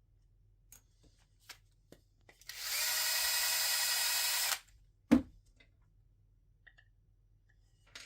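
A drill with a countersink bit runs steadily for about two seconds, cutting a countersink into a screw hole in wood. Shortly after it stops there is a single sharp thump, with a few light clicks around it.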